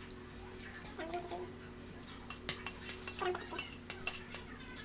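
Cutlery clinking against a bowl of soup: a few light touches, then a quick run of about ten clinks in the second half.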